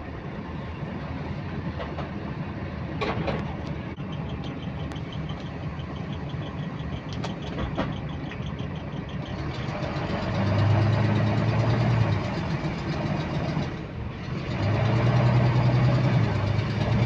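Bus diesel engine running with a fast, regular clicking that keeps time with engine speed. About ten seconds in the engine note grows loud as it pulls under load, drops briefly, then pulls again.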